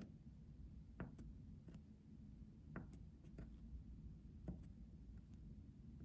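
Faint, soft taps and clicks at irregular intervals, roughly one a second, over a low steady hum.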